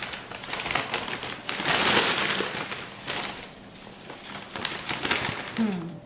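Newspaper packing rustling and crinkling as a paper-wrapped plant is pulled out of a cardboard shipping box, in irregular bursts with a quieter stretch in the middle.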